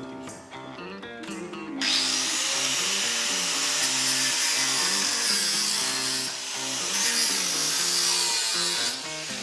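Background music with a stepping melody throughout. About two seconds in, a loud, steady power tool starts working on metal exhaust pipe. It dips briefly around the middle and stops shortly before the end.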